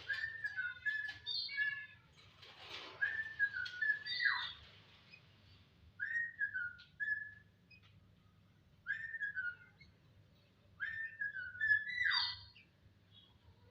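A jalak (starling) whistling about five short phrases a couple of seconds apart. Each phrase is a clear wavering whistle that ends in a quick falling slur, and the first phrases are mixed with some scratchy chatter.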